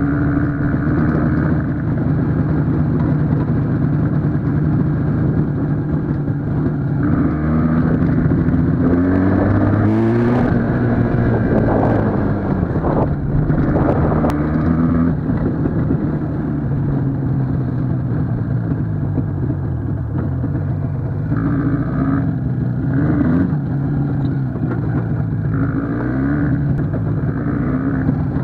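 IZh Jupiter motorcycle's two-stroke engine running under way. Its pitch rises and falls several times around the middle as the revs change.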